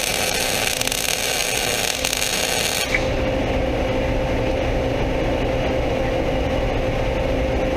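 Welding arc crackling and hissing on the plow's steel as a bead is laid, stopping abruptly about three seconds in; a steady machine hum carries on afterwards.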